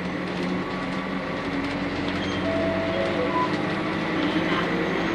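Interior running sound of a Nissan Diesel UA city bus with a PU6 natural-gas (CNG) engine, the engine note rising steadily as the bus gathers speed.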